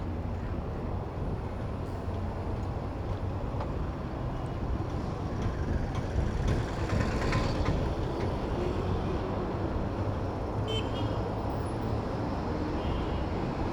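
Motor traffic of a city street heard from a moving bicycle: a steady rumble of engines and tyres, with wind rumble on the microphone.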